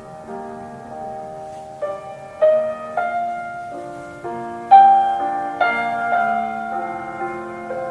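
Solo piano playing a slow, gentle classical melody, notes struck one at a time and left to ring, with the loudest note about two-thirds of the way through.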